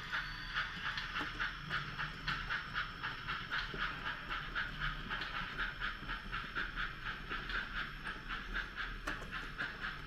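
HOn3 model steam locomotive's sound decoder chuffing steadily, about three chuffs a second, through its small onboard speaker, over a low steady hum.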